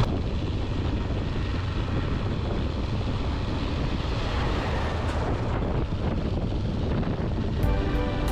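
Wind rushing over the microphone while riding a Benelli 702 motorcycle downhill, with a steady low rumble underneath. Music comes in near the end.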